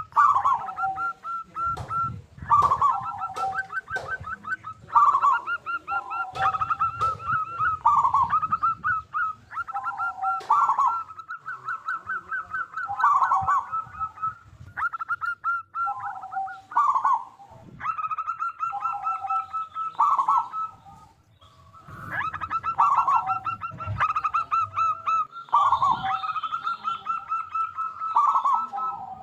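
Local zebra dove (perkutut) cooing over and over: fast trilled coos, each phrase ending on a lower note, one phrase every two to three seconds.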